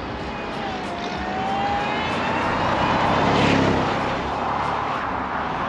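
2001 Ford Lightning's supercharged V8 driving past, its supercharger whine rising in pitch early on; the sound builds to its loudest about three and a half seconds in and then fades as the truck moves away.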